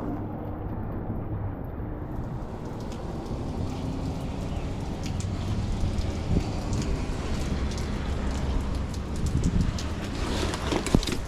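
Steady rain with a low rumble underneath, and a few sharp knocks near the end.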